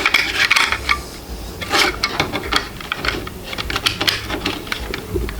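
Hands fitting a part onto a 3D printer: an irregular run of small clicks, taps and rubbing from handled hard parts as the display screen is worked into place.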